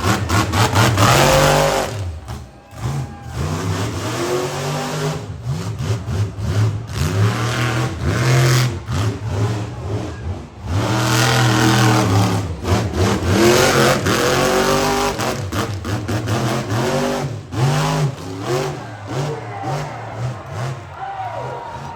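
Monster truck engine revving hard again and again, its pitch climbing and dropping repeatedly under heavy throttle, with a brief lull about two and a half seconds in.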